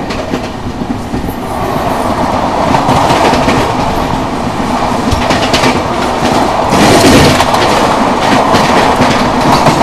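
Passenger train's wheels clattering over the rails with a steady running rumble, heard loud through an open coach door; the noise builds as the train gathers speed after a station stop.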